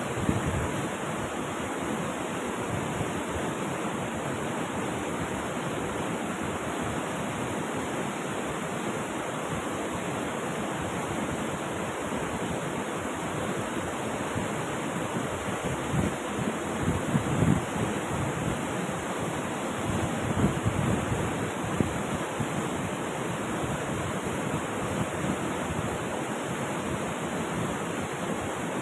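River water rushing steadily over rocks, a continuous even roar with a few brief louder gushes a little past halfway through.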